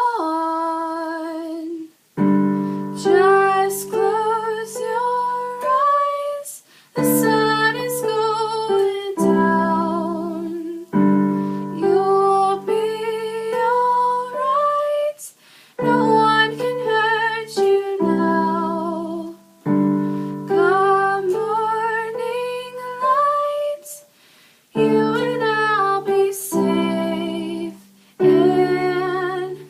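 Female voice singing a wordless melody over sustained piano or keyboard chords struck about every four seconds.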